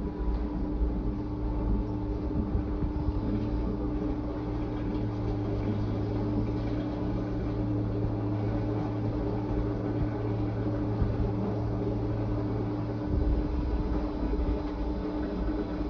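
Fisher & Paykel IW812 top-loading washing machine running mid-cycle: a steady motor hum with a constant tone over a low rumble. Near the end the deepest part of the hum drops out and the rumble gets briefly louder.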